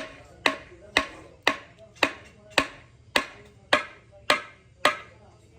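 Hammer striking metal on a truck gearbox part, about two blows a second, each blow ringing briefly at the same pitch. The blows stop near the end.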